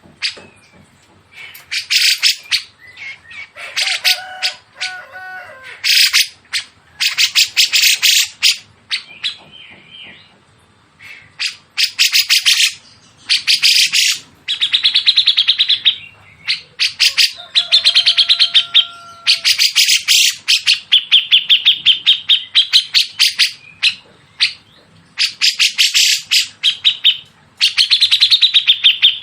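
Songbirds calling in fast, harsh, stuttering chatter that comes in repeated bursts of about a second each. A few clear whistled notes and wavering trills fall between the bursts.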